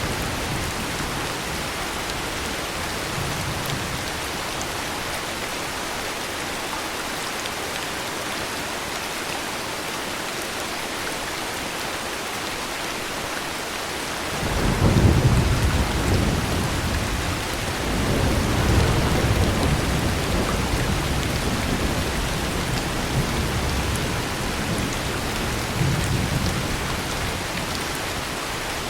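Heavy rain falling steadily. About halfway in a roll of thunder breaks in and rumbles on in waves for several seconds, with a last swell near the end.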